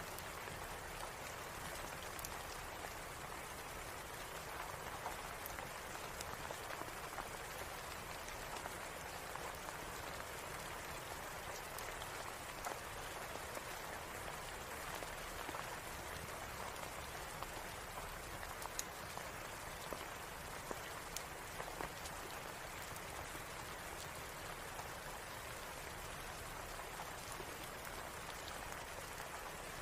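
Steady rain pattering, an even hiss of drops, with scattered sharp ticks and clicks through it.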